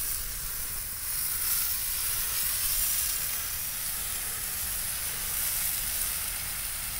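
Riding lawnmower fully engulfed in flame, the fire burning with a steady hiss; the owners think gasoline leaked from the gas tank onto the engine.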